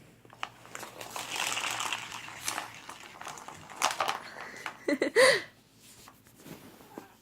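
Crinkling and rustling with scattered clicks as a cat bats and tussles with a toy, followed by a short vocal sound about five seconds in.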